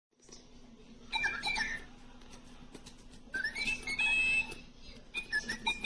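Little Live Pets My Really Real Bird toy chirping: three short bursts of electronic bird tweets with quick rising and falling pitch, about one, three and a half and five and a half seconds in, over a faint steady low hum.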